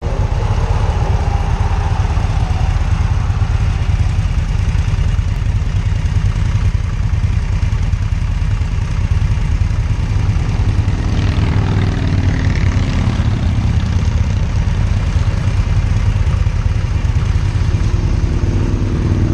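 Motorcycle engines idling steadily at close range, with a brief rising and falling higher sound about eleven to thirteen seconds in.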